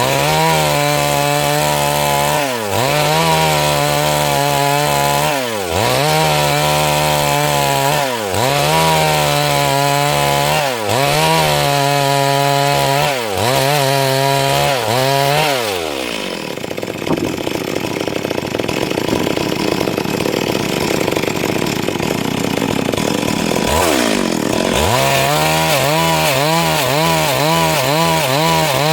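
Two-stroke chainsaw, tagged as a Stihl MS 382, ripping lengthwise through a siris log. For about the first sixteen seconds its engine pitch drops and recovers about every two and a half seconds as the cut is worked. Then the engine tone drops away into a rough, noisy sound for about eight seconds before the regular rise and fall returns.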